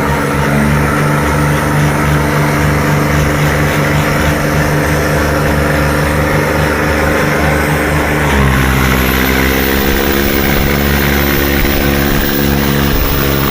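Tractor diesel engines running hard under heavy load in a tug-of-war pull, a loud steady drone. About eight seconds in the engine pitch drops and holds lower.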